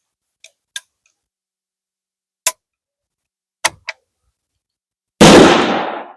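Reproduction 1863 Sharps percussion carbine firing a cartridge loaded with 60 grains of black powder: one very loud shot about five seconds in, dying away over most of a second. A few light clicks and knocks come before it.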